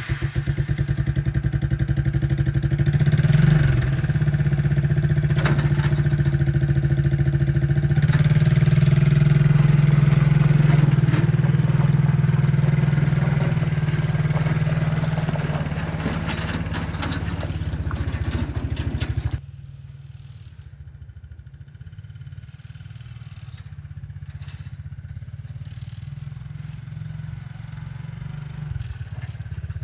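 A motor running steadily with a strong low hum, which drops abruptly to a much quieter hum about nineteen seconds in.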